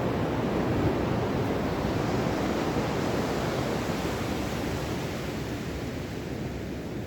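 Ocean waves washing onto a shore: a steady rushing surf that slowly dies away as a wave recedes.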